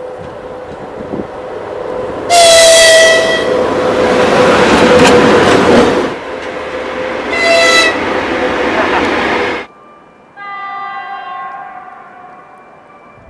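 Locomotive air horn (typhon) sounding a loud blast, then a short second blast about five seconds later, as a train passes close by with heavy rolling noise. The sound cuts off suddenly, and a quieter, longer horn then sounds and fades.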